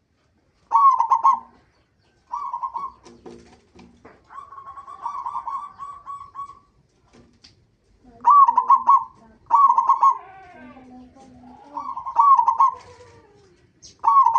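Zebra dove (perkutut) cooing in a run of short, staccato phrases, with one longer rolling trill a few seconds in.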